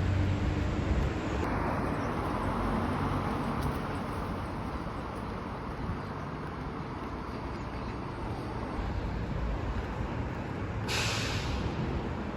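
Steady vehicle rumble and running noise, with a short, loud hiss about eleven seconds in.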